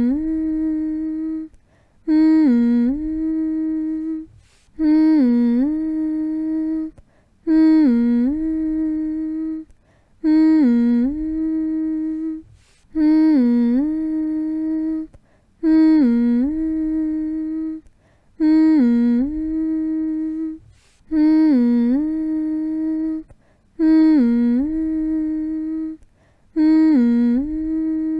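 A person humming with the mouth closed, in a slow, repeated phrase to lull a baby to sleep. Each hum holds one note, dips briefly lower and rises back, then pauses for a short breath, about every three seconds.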